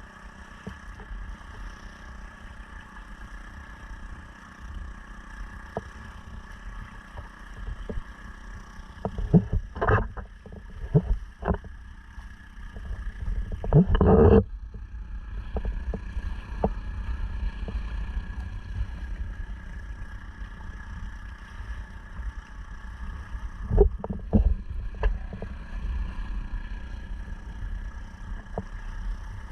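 Honda 2.3 hp four-stroke outboard motor running at a steady speed, pushing a sea kayak along, with a steady engine whine over a low rumble. Several loud thumps break in about ten seconds in, again around fourteen seconds and near twenty-four seconds.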